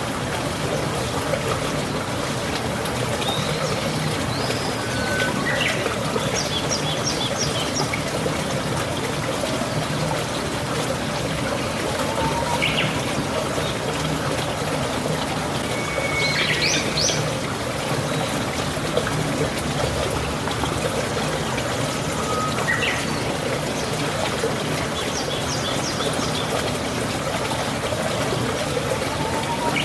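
Steady rain with water trickling and pouring. Birds chirp now and then over it, including a few quick runs of four or five high notes.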